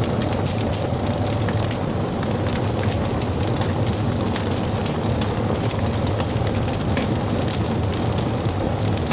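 Wood fire burning: a steady low rumble of flames with frequent small crackles and pops of the burning wood.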